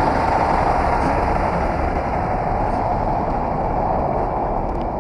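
Tractor-trailer truck driving at road speed: a steady, loud mix of engine and road noise.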